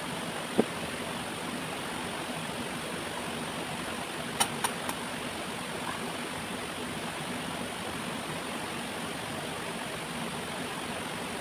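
Steady rush of a waterfall and its stream. A single sharp knock comes about half a second in, and a quick run of three clicks a little past four seconds in.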